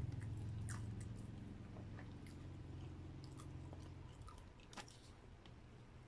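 Close-miked chewing of a mouthful of grilled barbecue, with scattered small wet clicks and crunches, over a low steady hum.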